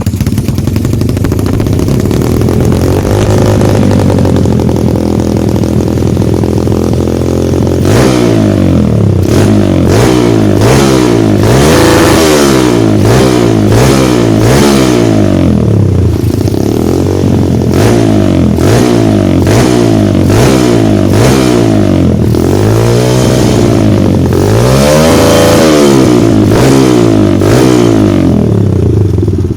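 Kawasaki KLX 150 single-cylinder four-stroke engine through an aftermarket racing exhaust, idling for several seconds, then blipped repeatedly: quick revs up and back down, one after another, with a bigger, longer rev near the end.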